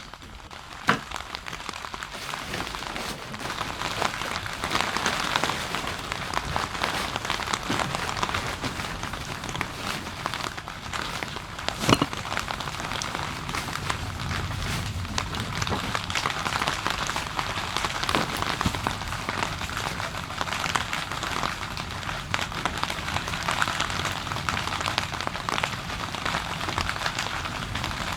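Rain falling steadily on a surface, a dense patter with a single sharp knock about twelve seconds in.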